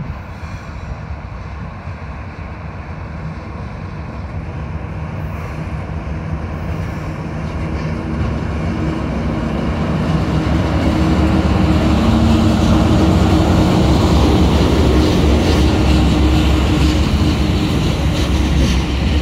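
Three TasRail TR class diesel-electric locomotives approaching and passing close by, their engines a steady drone that grows louder to a peak about two-thirds of the way through. Near the end the locomotives give way to the rumble of container wagons rolling past.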